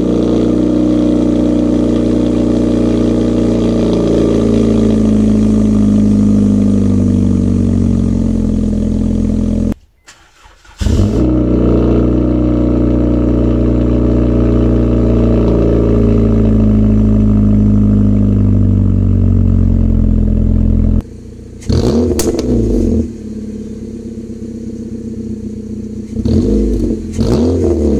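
A car engine running, its pitch sliding slowly down over several seconds, then again after a short break about ten seconds in. Near the end the pitch rises and falls more quickly, as in light revving.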